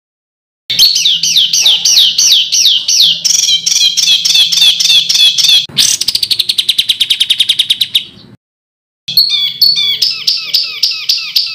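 Songbird song of harsh, rapid-fire repeated notes: after a brief silence, a run of quick down-slurred notes about six a second, then a faster trill around the middle. The song breaks off briefly and the repeated notes resume near the end.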